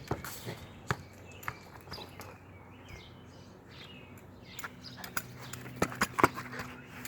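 Irregular taps, knocks and scuffs from a dog playing with a ball, busiest and loudest about six seconds in.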